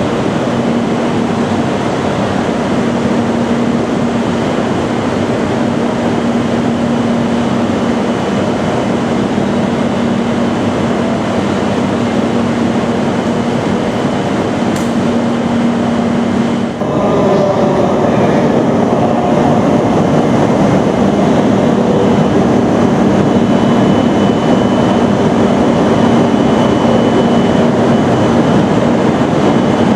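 Tohoku Shinkansen train moving along the platform: a steady loud rush of wheel and air noise with a low electric hum. About 17 seconds in the sound changes abruptly and becomes slightly louder, with new tones over the rush.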